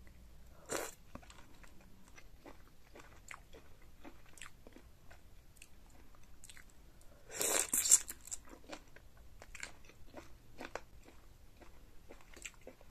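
Close-miked eating sounds of shrimp in a seafood boil sauce: wet chewing and mouth clicks. One louder bite comes a little under a second in, and a louder burst of crunching around seven and a half seconds in.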